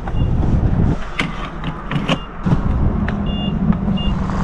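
Vehicle sounds: a low rumble and a steady engine hum, with several sharp knocks and clicks and a few short high beeps.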